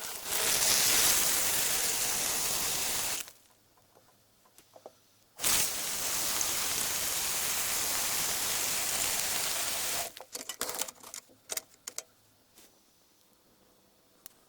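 Two long bursts of steady hissing spray, the first about three seconds and the second about four and a half, each starting and stopping abruptly, followed by a brief scatter of small clicks and rattles.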